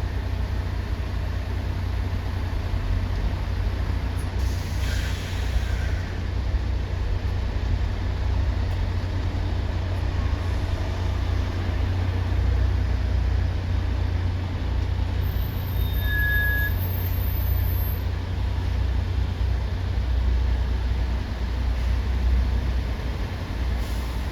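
Steady low rumble of heavy port traffic, with a brief hiss about five seconds in, like a truck's air brake releasing. A short high squeal follows about two-thirds of the way through.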